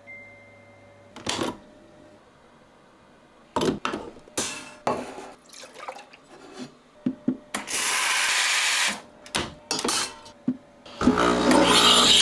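Scattered knocks and clinks of hard parts being handled, with about a second of rushing hiss like running water about eight seconds in. A louder, steady humming sound starts near the end.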